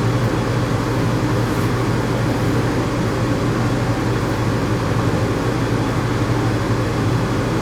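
Steady, unbroken mechanical hum with a strong low buzz, like a running motor.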